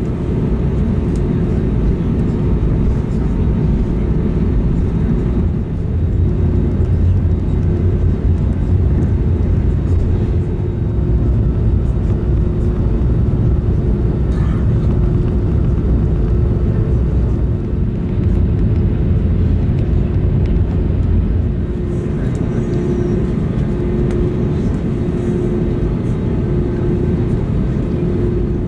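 Steady low cabin rumble of an Airbus A320neo on the ground with its engines running, shortly before takeoff, with a faint steady hum in it.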